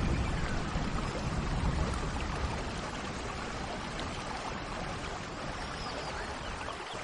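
Steady rain falling, with a low rumble of thunder dying away over the first couple of seconds. Faint bird chirps come through the rain now and then.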